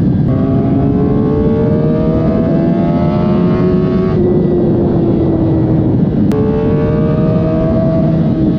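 Suzuki GSX-R1000 K7 inline-four on its stock factory exhaust, pulling under acceleration. The engine note climbs steadily for about four seconds and then eases slightly. A sharp click comes about six seconds in, and the note starts climbing again.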